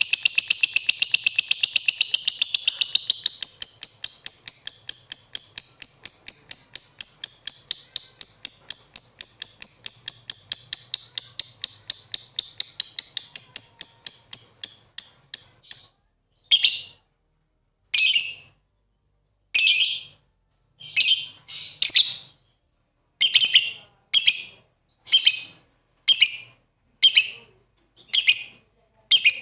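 Lovebirds chirping: a rapid run of high, shrill chirps, several a second, that slowly fades over the first half, then single sharp chirps about once a second.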